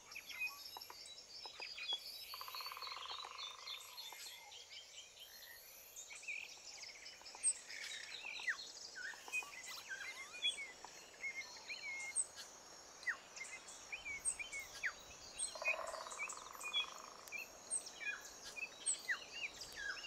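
A faint chorus of small birds chirping and calling, many short chirps coming thicker from about seven seconds in, with a buzzy trill twice, near the start and about sixteen seconds in.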